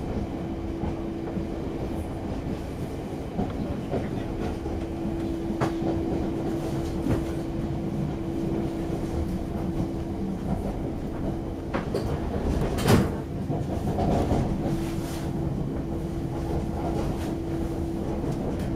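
Passenger train rolling along, heard from inside the coach: a steady rumble of wheels on rail with a low, even hum. A few sharp knocks come as the wheels cross track joints; the loudest falls about two-thirds of the way through.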